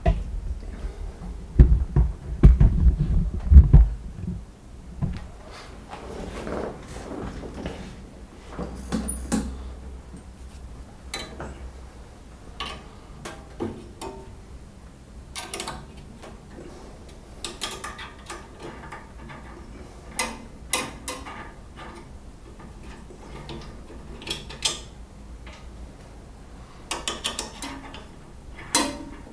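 Irregular clunks and clicks of metal parts being handled. A run of heavy knocks comes in the first few seconds, followed by scattered lighter clicks and taps, a few with a short metallic ring.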